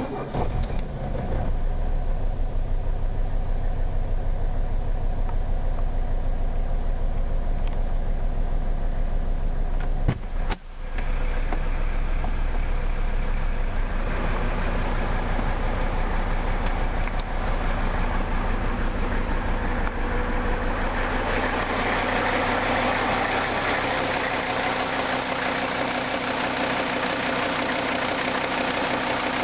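1980 Mercedes-Benz 300D's five-cylinder diesel engine cranking and catching on a cold start, then idling with a steady diesel knock. About ten seconds in the sound briefly drops out and picks up again, and from about twenty seconds the clatter turns brighter and higher.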